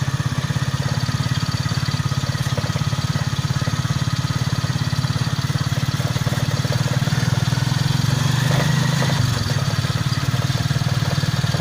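A small engine running steadily with a fast, even pulse, swelling slightly about eight seconds in before settling back.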